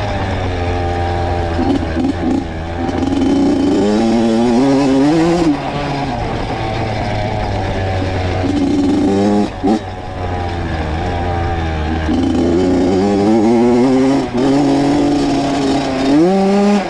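Honda CR two-stroke dirt bike engine under way, its pitch climbing as the throttle is opened and dropping back sharply several times.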